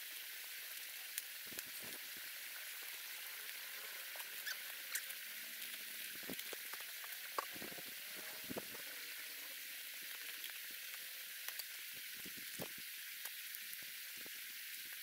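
Faint steady high hiss with scattered faint clicks and crackles.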